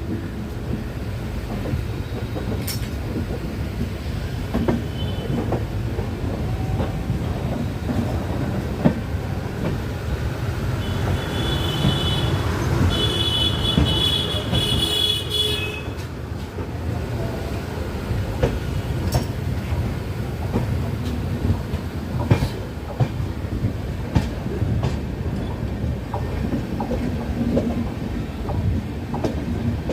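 Passenger train running along the track: a steady low rumble with scattered clicks and knocks from the wheels. About eleven seconds in, a high squeal lasts roughly five seconds, then stops.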